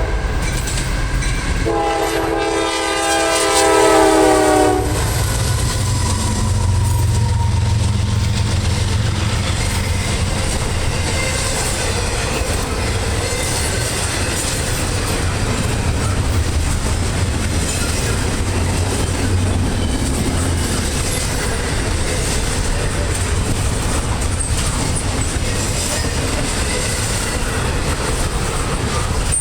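Norfolk Southern GE AC44C6M diesel locomotive's horn: one blast ends just as the clip opens, and a second, louder blast runs from about two seconds in to nearly five. Then the locomotive rumbles past, followed by a steady run of double-stack intermodal cars rolling by with the clickety-clack of wheels on the rail.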